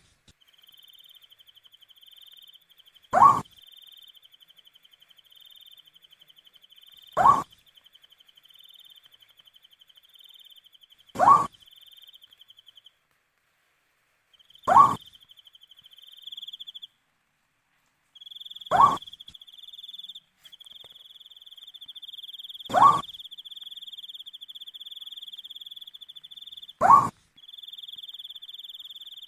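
An owl giving a single short, upward-sliding hoot, repeated seven times at about four-second intervals. Behind it an insect trills steadily at a high pitch, breaking off briefly twice.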